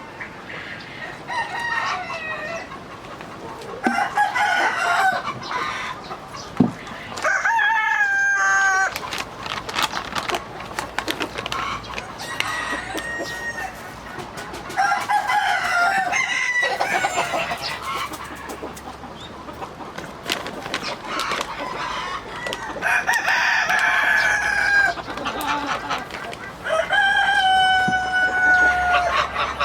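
Free-range chickens calling: roosters crowing several times with long drawn-out calls, among hens clucking.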